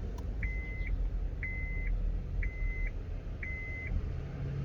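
Electronic warning beep at one steady high pitch, sounding four times about once a second, each beep about half a second long, then stopping. A low rumble runs underneath.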